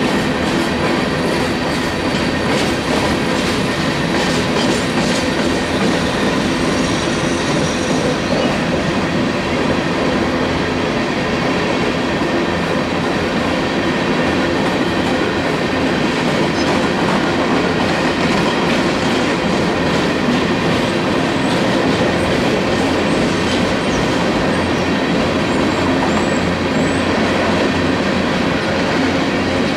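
A Union Pacific coal train's hopper cars rolling past at a steady pace, their steel wheels running on the rails in an even, continuous rumble. Faint thin wheel tones run through it.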